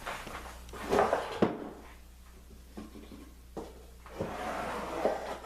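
Wooden workpiece being handled and moved: scraping and rubbing of wood, a sharp knock about a second and a half in, then another stretch of rubbing near the end.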